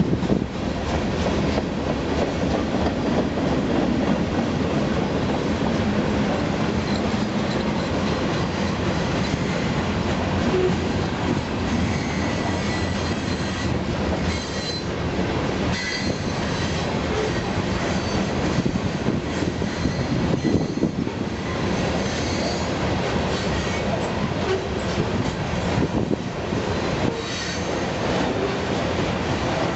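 Union Pacific freight train rolling past, its wheels clacking and rumbling on the rails, with brief high wheel squeals now and then.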